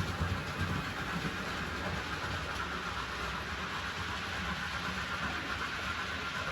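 Model train running along a layout's track: a steady motor whine over a low rumble of wheels on the rails.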